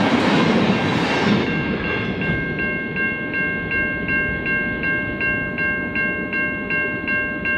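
Diesel-hauled train passing, its rumble fading away from about a second and a half in. A level crossing bell rings steadily, about three strikes a second.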